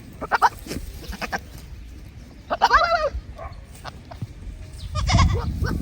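One long, wavering bleat from the goat and sheep flock about two and a half seconds in, with shorter, fainter animal sounds near the start and a louder rustle near the end.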